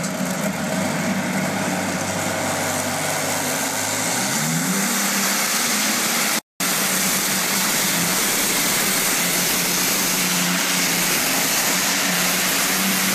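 Allison V-12 aircraft engine in a pulling tractor running hard. It revs up about four seconds in and holds at high revs. The audio drops out for a split second about halfway.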